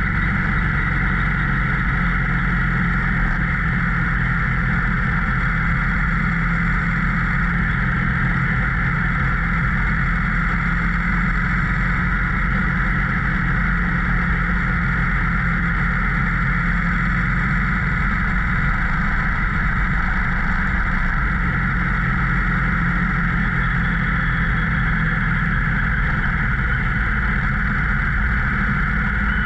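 Motorcycle engine running steadily at cruising speed, with wind and road rush over it.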